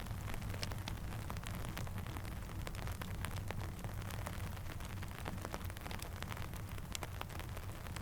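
Steady rain with many scattered sharp ticks and pops from a crackling campfire, over a low, even rumble.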